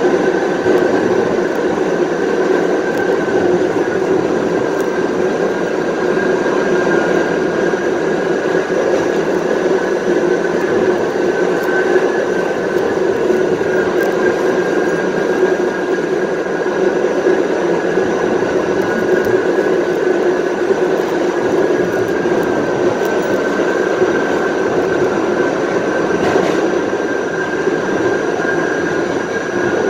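Kawasaki R68A subway car riding at a steady speed, its traction motor gears giving a steady howl over the rumble of wheels on track.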